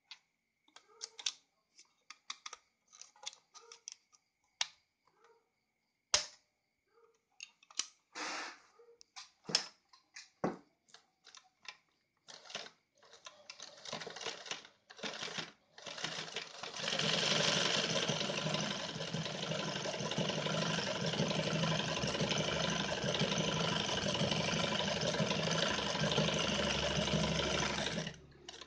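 Scattered clicks and knocks from a Yamato 673 zigzag sewing machine being handled, then the machine running steadily, sewing for about eleven seconds before it stops suddenly near the end.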